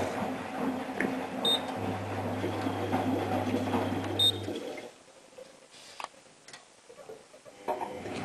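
Privileg Ergonomic 1600 S washing machine running with a steady hum and a rumble from its drum, which has a badly worn bearing. It stops about four and a half seconds in, leaving a few faint clicks, and starts again near the end.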